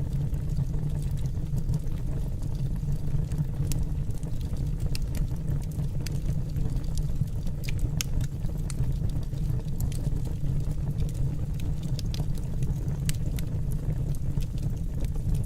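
Wood fire in a fireplace, crackling with irregular sharp pops over a steady low rumble.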